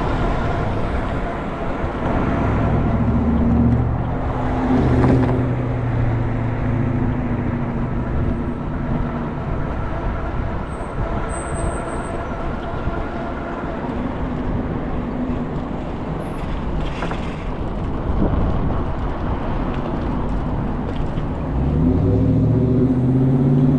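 Inside a San Francisco Muni city bus: the motor hums steadily under road noise, with its pitch climbing as the bus speeds up near the end. Two short hisses of air come about 5 seconds in and again about 17 seconds in.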